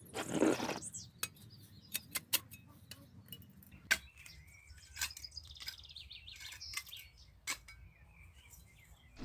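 Small birds chirping over a low steady background, with scattered sharp clicks and a brief noisy burst about half a second in.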